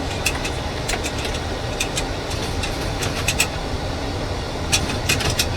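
Boeing 737 flight deck in flight: a steady low rumble of airflow and engines, with irregular sharp clicks and rattles, bunched in the middle and near the end.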